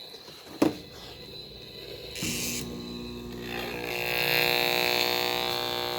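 A sharp click as the timer switch is turned, then about two seconds in a microwave oven starts running with a steady electrical hum; a hiss joins it about four seconds in and it grows louder.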